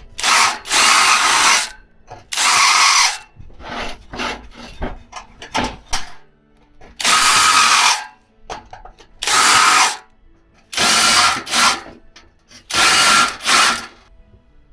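Electric drill boring through the thin steel of a pail can in about seven short runs of roughly a second each, with quieter scraping and handling noises in between.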